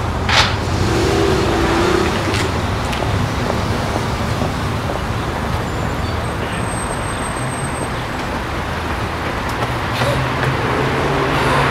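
Ford Fusion hatchback's engine running as the car pulls up at the kerb and stops, then idling steadily. There is a brief sharp noise about half a second in.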